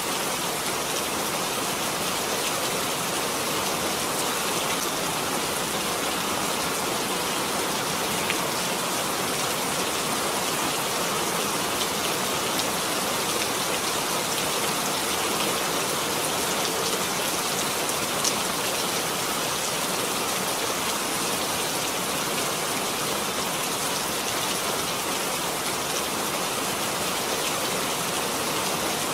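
Steady rain falling, an even hiss with a few faint separate drop ticks.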